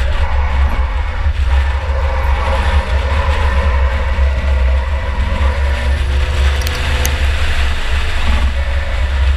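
2004 Chevy Impala race car's engine running under load, heard from on board as a loud, steady, deep rumble with road and drivetrain noise.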